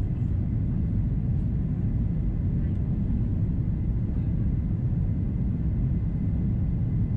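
Steady low rumble inside the cabin of an Airbus A330-343 in descent: its Rolls-Royce Trent 700 engines and the airflow over the fuselage, with a faint steady high whine.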